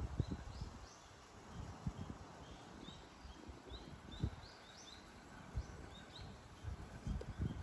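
Small birds chirping, short high notes repeated about twice a second, over faint outdoor background noise with a few low thumps.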